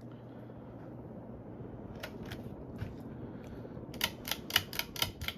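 Lasko Contemporary 36-inch ceiling fan (type 36CL, Sanyo-made one-sided spinner motor) running on high with a low hum. A couple of sharp clicks come about two seconds in, and a quick series of about six loud clicks comes near the end.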